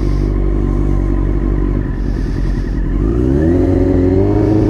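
Motorcycle engine running steadily, then accelerating with a rising pitch about three seconds in before settling at higher revs.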